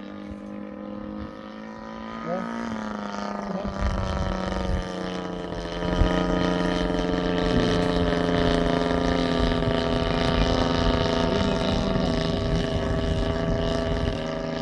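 Gas engine of a large-scale Laser Z200 aerobatic RC airplane running in flight. It rises in pitch and grows louder about two and a half seconds in and again near six seconds, then holds a steady high drone.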